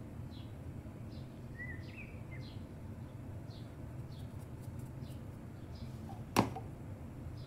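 A bird chirping repeatedly in short high chirps, about one every second or less, with a brief warbled call about two seconds in, over a steady low hum. A single sharp click about six seconds in is the loudest sound.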